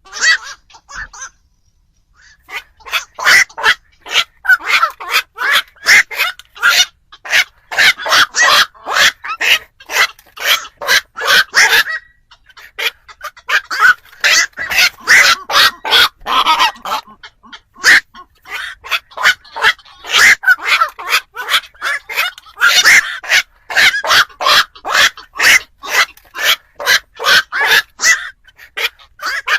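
Black-crowned night herons calling: loud, short calls repeated rapidly, several a second, in long runs broken by brief pauses near the start, about twelve seconds in and about eighteen seconds in.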